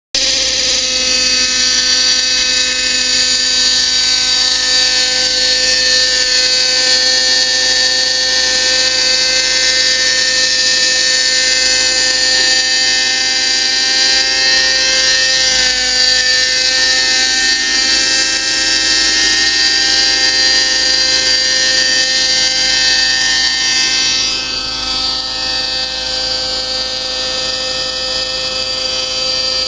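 Raptor radio-controlled model helicopter hovering, its motor and rotor blades running with a steady, many-toned whine that gets a little quieter near the end.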